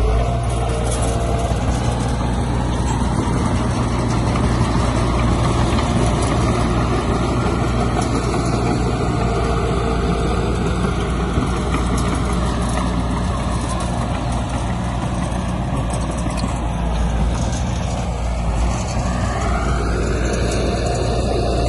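Heavy diesel engine of earthmoving machinery running steadily under load, its pitch rising near the end as it revs up.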